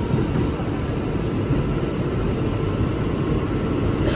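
An R211 subway car running through a tunnel, heard from inside the car: a steady low rumble of wheels on rail.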